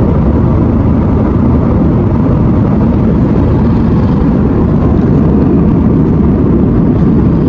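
Steady, loud roar of a passenger jet's engines and rushing air, heard from inside the cabin.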